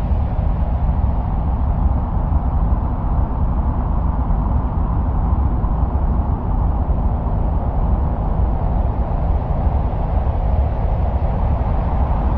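Steady, unbroken wind-like noise, heaviest in the deep bass with a softer hiss above, presented as the sound of Mars.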